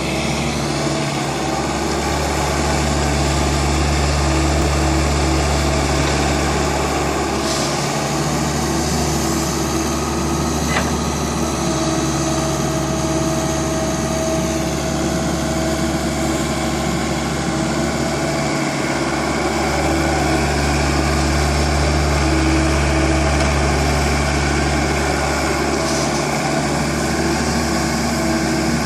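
Tractor engine running steadily, its deep rumble swelling twice for several seconds at a time, with a few faint clicks over it.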